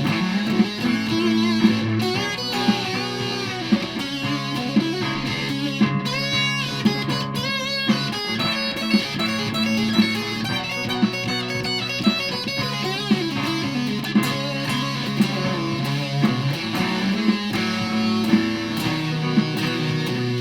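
Aria Pro II Thor Sound electric guitar played through a Behringer fuzz pedal: heavily fuzzed, sustained picked notes and riffs, with a stretch of wavering vibrato notes about six to eight seconds in.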